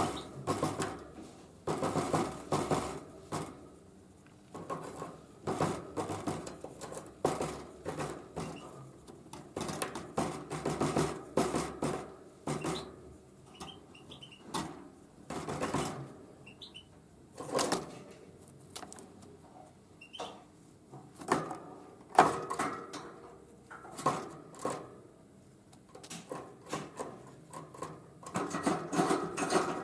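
A tit pecking at sunflower seeds, hammering them with quick bursts of sharp taps in clusters every second or two, with a few faint short chirps midway.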